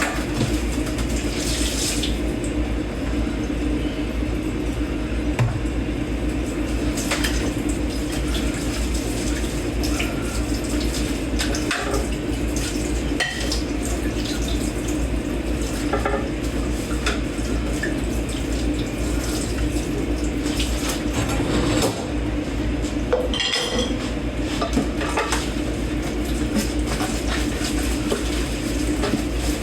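Dishes and cutlery being hand-washed in a kitchen sink: irregular clinks and clatters of plates and forks over the steady rush of running tap water.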